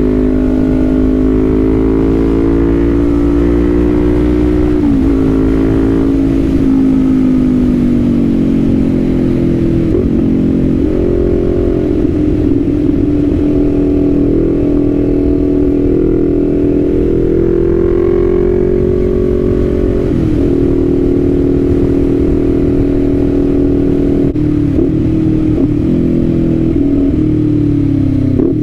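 Kawasaki Z400's 399 cc parallel-twin engine running under way, its revs rising and falling, with short breaks in the engine note about five times as at gear changes, over a steady low wind and road rumble.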